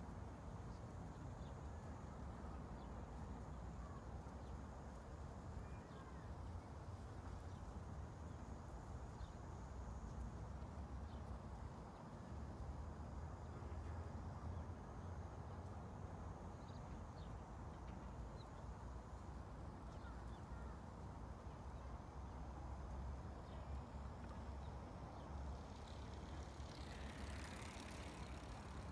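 Faint, steady low rumble of ambient background noise, with a few faint scattered ticks and a brief hissing swell near the end.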